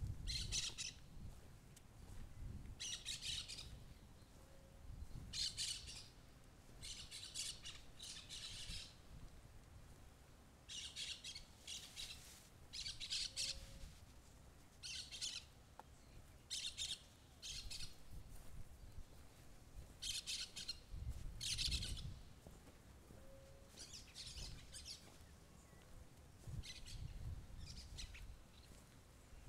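Birds calling in short, high chirping bursts that repeat every second or two, over a faint low rumble.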